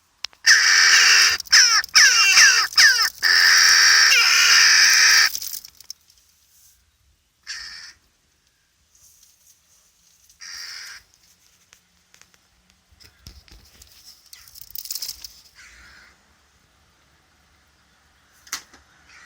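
Crow nestlings calling from deep inside a chimney: a loud, harsh chorus of overlapping calls for about five seconds, then a few short single calls spaced several seconds apart.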